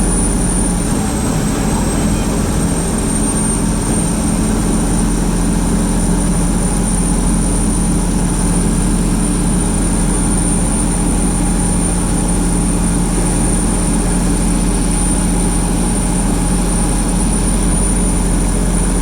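Canal ferry's diesel engine running loud and steady, heard from on board: a constant low drone with a thin high whine over it.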